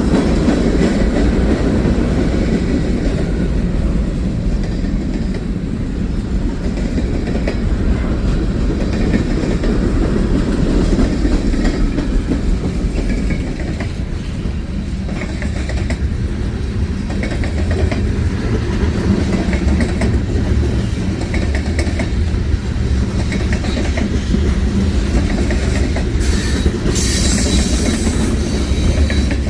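A freight train rolling past, steel wheels clicking over the rail joints under a steady rumble, with high-pitched wheel squeal near the end.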